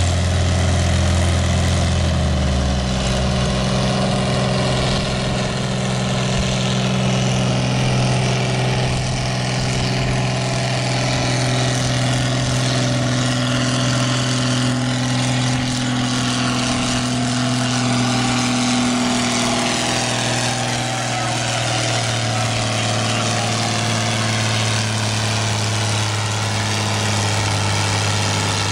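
Farm stock pulling tractor's engine running hard under load as it pulls the weight-transfer sled: a loud, steady drone whose pitch shifts only slightly.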